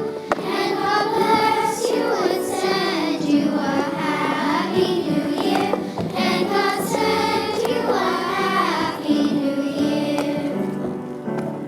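A choir of young children singing a song with accompaniment; the singing dies away near the end, leaving held notes.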